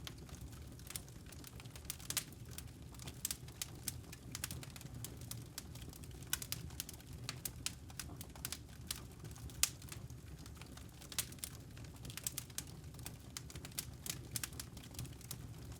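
Wood fire crackling: irregular sharp pops and snaps, several a second, over a low steady rumble of the burning logs.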